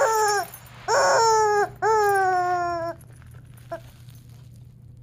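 Rubber chicken chew toy squawking: a short squawk trailing off, then two long, loud squawks back to back, each sliding slightly down in pitch, then it stops.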